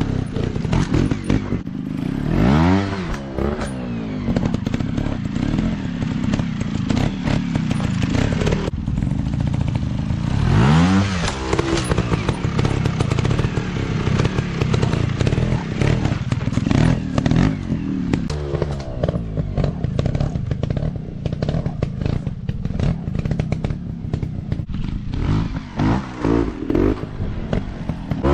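Dirt bike engine revving, its pitch climbing sharply about two seconds in and again around eleven seconds, with further rev-ups near the end, over a steady run of short knocks and clatter.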